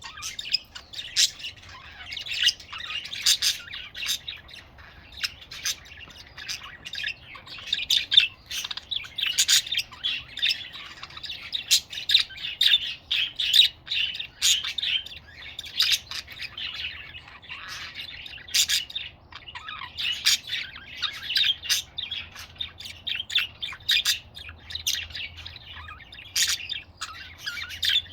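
Budgies chirping and chattering together in a continuous warble, with many short, sharp calls.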